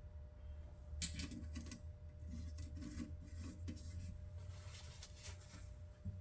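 Faint small clicks and scraping of a screwdriver turning a new replacement screw into a metal equipment case, with a low steady hum behind.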